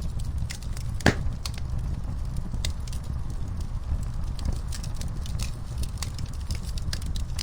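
Wood fire crackling in a fireplace: a steady low rumble of burning with scattered sharp snaps and pops, one louder pop about a second in.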